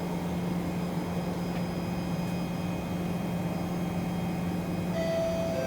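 Kawasaki C151 train standing in a station with a steady low hum from its equipment. About five seconds in, the hum drops away and a bright steady tone with overtones starts, like an announcement chime.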